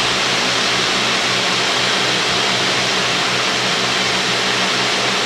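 A Cessna 310's two six-cylinder piston engines and propellers drone steadily in cruise-to-approach flight, heard as an even hiss with a low hum through the intercom audio feed.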